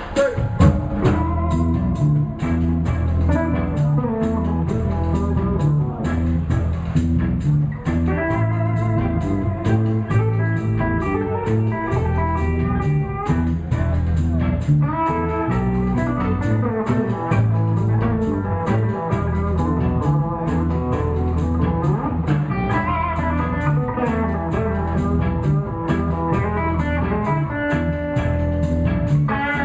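Live blues band playing an instrumental passage: guitar lines over bass guitar and drum kit, with a repeating bass figure.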